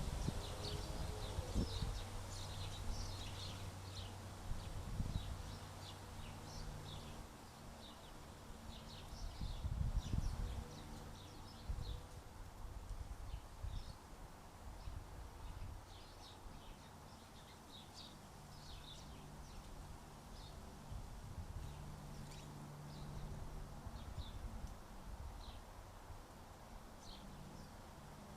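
Small birds at a feeder giving many short, high chirps and calls throughout, over low rumbling thumps near the start and about ten seconds in, and a faint steady low hum.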